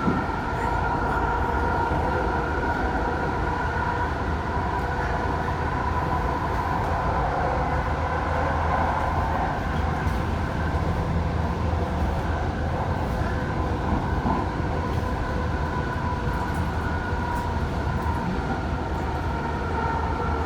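Inside a VTA light rail car running between stations: a steady rumble of wheels on the track with a steady electric whine over it.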